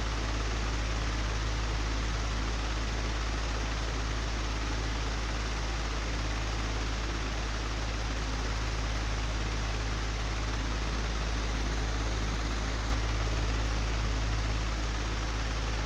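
Old electric fan running steadily: an even whoosh of air over a constant low motor hum, with one faint click about thirteen seconds in.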